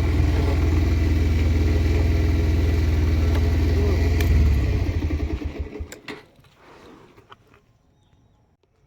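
Motorcycle engine idling with a steady low putter, swelling briefly about four seconds in, then switched off and running down to a stop; a few small clicks follow in the quiet.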